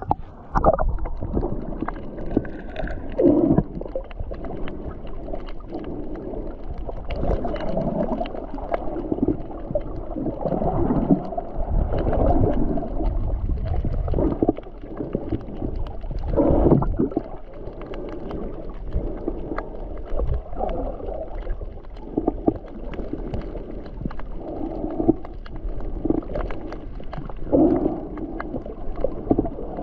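Water sloshing and gurgling in irregular muffled surges, over a low rumble of wind or water.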